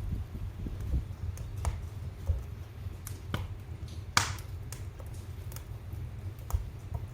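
Wood fire in a fireplace crackling: irregular sharp pops and snaps over a low steady rumble, with one louder pop about four seconds in.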